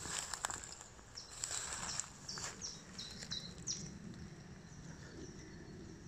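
Rustling and brushing of wet grass and undergrowth being walked through, loudest in the first two seconds. Then a songbird sings a short phrase of six or seven quick high chirps, about two to four seconds in.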